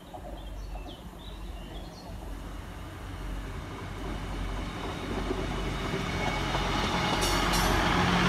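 Class 158 diesel multiple unit approaching and running along the platform, its underfloor diesel engines and wheels on the rails growing steadily louder as it draws near.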